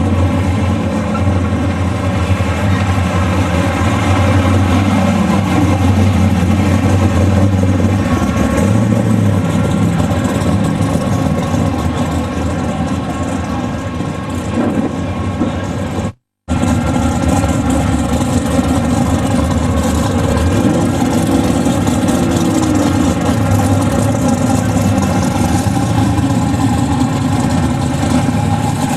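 Big V8 car engine running steadily at low revs, with a few brief changes in revs. The sound cuts out for a moment about halfway through.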